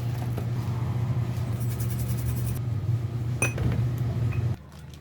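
A steady low hum that cuts off suddenly near the end, with a single metallic clink about three and a half seconds in.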